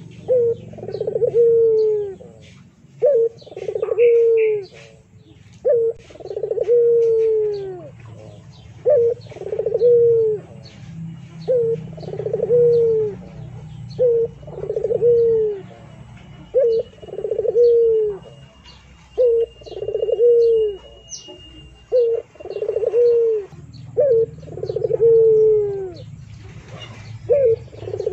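A bird cooing over and over, each call a short note followed by a longer falling coo, about every two and a half seconds, over a steady low hum.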